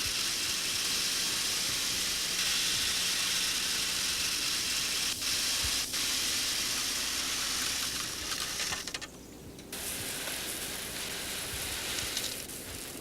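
A steady, fairly loud hiss, mostly high-pitched. It breaks off for an instant twice around five to six seconds in, drops out for nearly a second about nine seconds in, and fades near the end.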